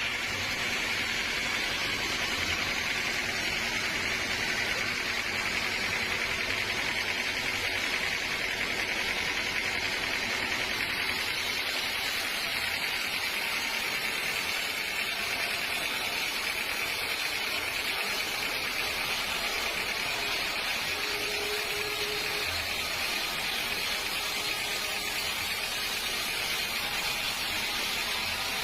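Sawmill machinery running steadily, a constant mechanical noise with no breaks or changes.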